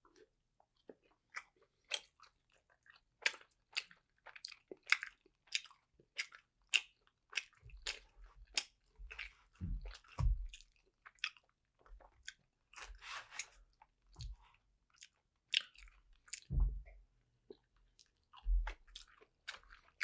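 Close-miked, wet chewing of soft dumplings, with irregular mouth clicks and smacks and a few low thumps.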